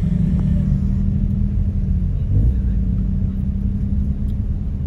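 A car engine running at idle: a steady low hum over a deep rumble, with a brief wobble in pitch a little over two seconds in.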